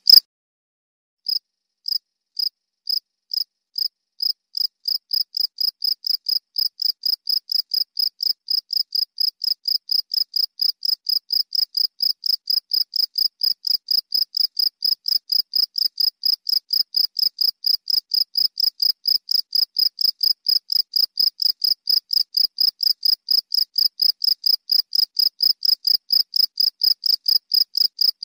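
A cricket chirping: a regular train of short, high chirps at one pitch. After a brief silence at the start it begins slowly, about two chirps a second, and quickens to about three a second, then holds steady.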